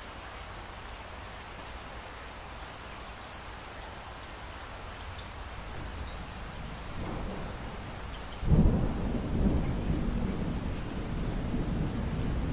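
Steady rain falling, then about eight seconds in a loud roll of thunder breaks in suddenly with deep rumbling that goes on under the rain.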